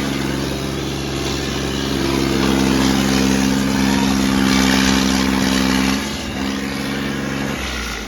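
Diesel tractor engine running steadily at a constant pitch, easing off about six seconds in and cutting out shortly before the end.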